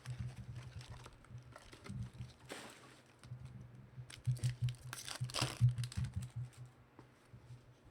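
Foil trading-card pack wrapper being torn open and crinkled, with cards handled; two louder rustles come about two and a half and five seconds in, over a low hum.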